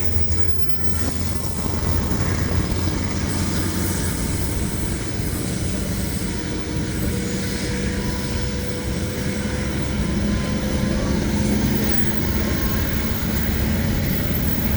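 KiwiRail train running steadily: a continuous rumble of engine and wheels with a faint held tone over it.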